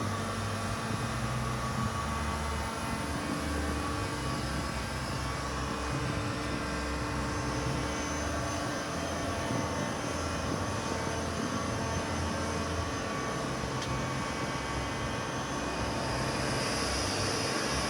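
Sachman T10 CNC bed milling machine running with a steady mechanical drone made of many steady tones over a pulsing low hum. It grows a little louder and brighter near the end.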